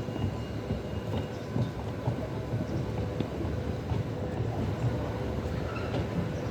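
Freight train wagons rolling past at steady speed, their wheels rumbling and clattering over the rail joints, with a faint thin squeal from the wheels.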